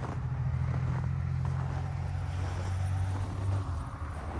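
An engine running with a steady low hum, its pitch stepping down a little about three and a half seconds in.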